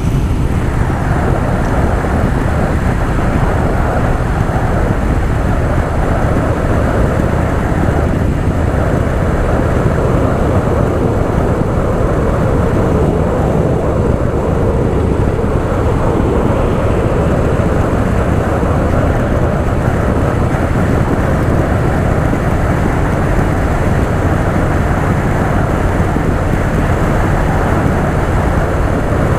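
Harley-Davidson Softail Fat Boy's V-twin engine running steadily under way, with the rush of riding noise.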